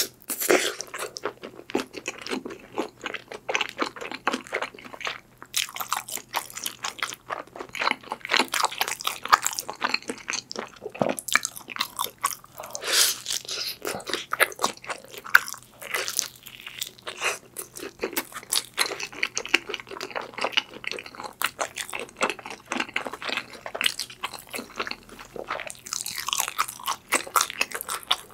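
Close-miked biting and chewing of a slice of Chicago-style deep-dish pepperoni pizza, the thick crust crunching between the teeth in a quick, uneven run of crackles.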